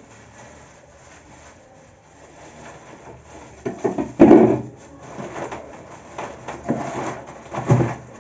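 Freezer drawers and packed food being shifted about: a quiet start, then a run of knocks and scrapes about four seconds in, the loudest, and two more knocks later.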